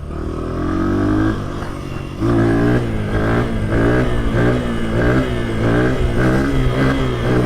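Honda CRF100 pit bike's single-cylinder four-stroke engine revving hard for a wheelie in third gear. The revs climb, ease off about two seconds in, then come back strong with the pitch pulsing up and down as the throttle is worked to hold the wheelie.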